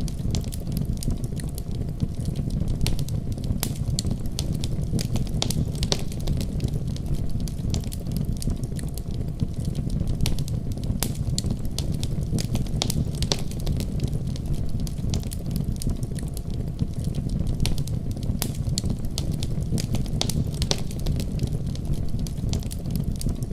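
Wood fire crackling, with frequent irregular sharp pops and snaps, over the steady deep rumble of a winter storm.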